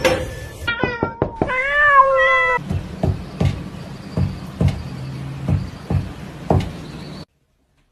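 Cat meowing a few times, each call rising and falling in pitch. It is followed by about seven irregular knocks over a low hum, and everything cuts off suddenly about seven seconds in.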